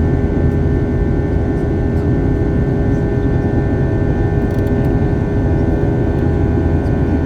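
Steady jet engine and airflow roar heard inside an Airbus A320-family airliner cabin, with a constant whine over the low rumble.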